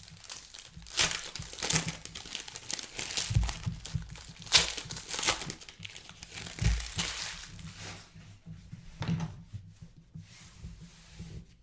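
Wrapping on trading card packs and boxes being crinkled and torn open by hand, in irregular crackling strokes, with a couple of soft thumps.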